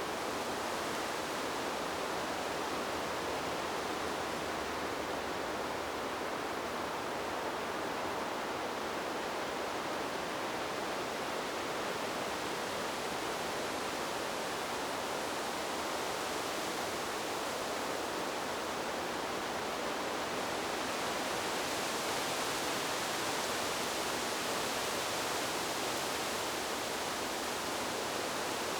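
Wind blowing through trees as a steady rushing hiss, with no distinct gusts, growing slightly brighter about two-thirds of the way through.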